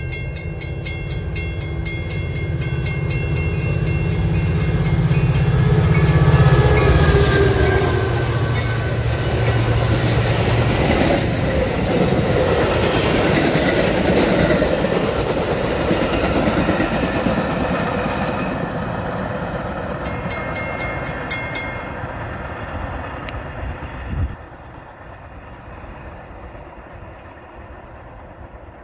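Metra express train, a diesel push-pull with bilevel gallery cars, passing through the station at speed without stopping. Horn and engine sound as it approaches, falling in pitch as it comes by, loudest about six seconds in. Then come a long rumble and clatter of wheels on rail as the cars go past, dying down over the last several seconds after a brief knock.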